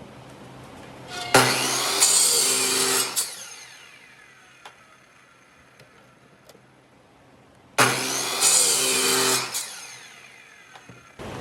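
A power tool working wood, run in two bursts of about two seconds each, one just over a second in and one near the end, each winding down after release.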